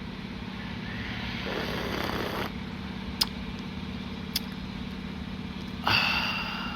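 Steady low hum of an idling vehicle engine, with a swell of passing-traffic noise a second or two in, two sharp clicks and a short louder burst of noise near the end.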